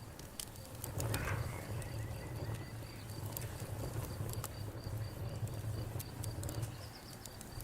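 Campfire burning, with irregular sharp crackles and pops over a low steady rumble of the flames. An insect chirps in an even, rapid rhythm behind it.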